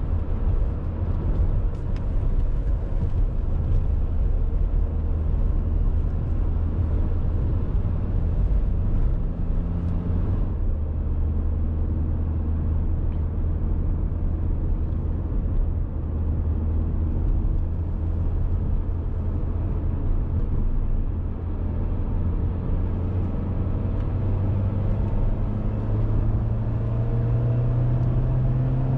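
Dacia Duster's 1.6 SCe naturally aspirated four-cylinder petrol engine running under way with tyre and road noise. The road hiss quietens about a third of the way in, and near the end the engine note climbs steadily as it gathers revs.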